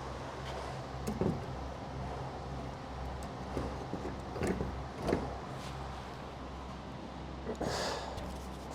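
Steady low mechanical hum with a faint hiss, broken by a few short knocks and a brief louder hiss near the end.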